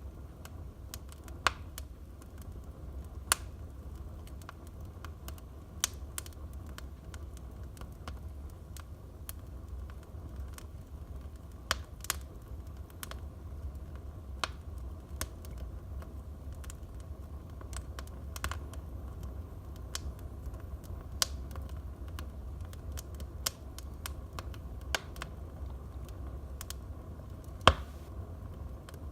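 Wood fire in a fireplace crackling, with irregular sharp pops and snaps over a low, steady rumble; one louder pop near the end.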